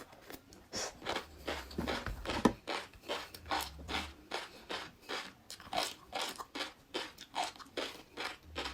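Close-miked chewing of crunchy food: a steady run of crisp crunches, about three a second, with one louder bite about two and a half seconds in.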